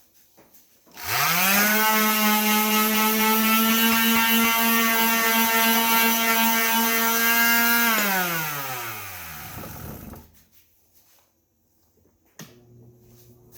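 Electric power tool motor switched on, rising to speed with a whine, running at a steady speed for about seven seconds, then switched off and winding down. A faint steady hum follows near the end.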